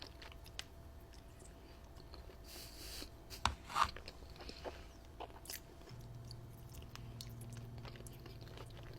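Close-up mouth sounds of someone eating pasta: chewing with soft wet clicks and smacks. A faint steady low hum comes in about two-thirds of the way through.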